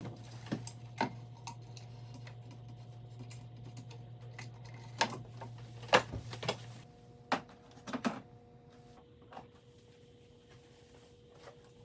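Scattered sharp clicks and knocks, irregular and a few seconds apart, the loudest about six seconds in, over a low steady hum that stops about seven seconds in.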